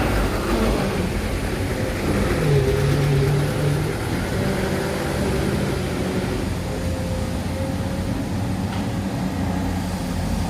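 Excavator's diesel engine running under load, its pitch rising and getting louder for a moment about two and a half seconds in, then settling back to a steady run.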